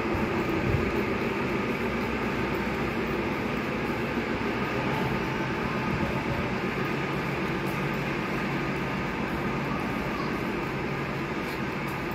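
Train at close range, a steady low hum with a rumble of running gear that fades slowly, and a few faint clicks near the end.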